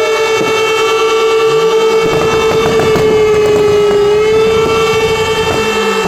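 Fire engine warning signals held continuously, several horn tones sounding together, one strong note dipping slightly in pitch about four seconds in. A low engine rumble rises under them in the middle.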